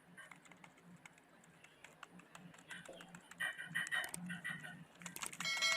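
Plastic toys being handled and rummaged through, a faint run of small clicks and taps that gets busier partway through, with a short ringing clink near the end.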